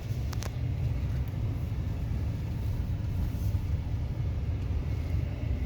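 Steady low rumble of a car moving slowly, heard from inside the cabin, with a couple of faint clicks shortly after the start.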